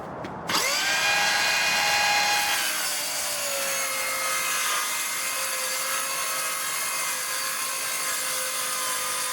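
Bauer 20V cordless 6.5-inch circular saw starting about half a second in, its whine rising as the blade spins up. About two and a half seconds in the pitch sags slightly and it runs on steadily under load as the blade cuts through 1-inch particle board.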